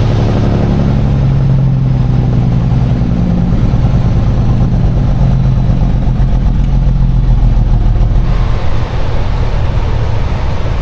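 Semi truck's Caterpillar diesel engine running under load, a loud low drone. About eight seconds in the engine note falls away, leaving a broad rushing road and wind noise.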